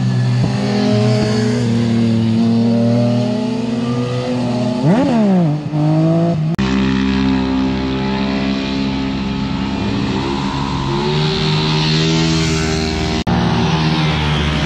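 Motorcycle engine running at speed, with a quick rev that rises and falls sharply in pitch about five seconds in. The engine sound changes abruptly twice.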